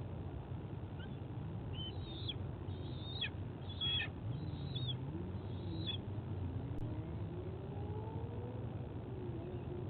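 A handful of short, high bird calls, about five, in a burst between about two and six seconds in, over a steady low rumble. A faint drone slowly rises in pitch through the second half.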